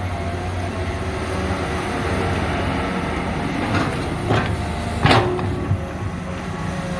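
Diesel engines of two six-cylinder hydraulic excavators running steadily, with a few short sharp clanks about four and five seconds in.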